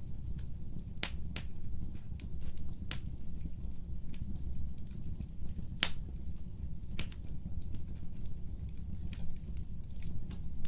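Fire crackling in a fireplace: irregular sharp pops and snaps, a few louder ones, over a steady low rumble of flames.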